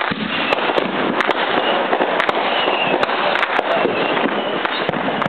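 Fireworks going off: a dense, unbroken crackling and popping, with sharp bangs scattered all through it.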